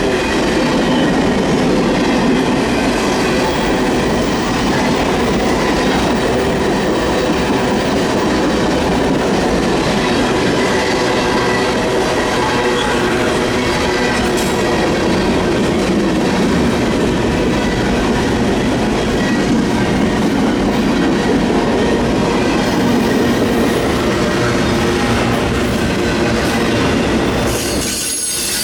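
Cars of a long CN mixed freight train rolling past close by: a steady, loud rumble of steel wheels on rail with faint thin wheel squeals running through it. The sound dips briefly near the end.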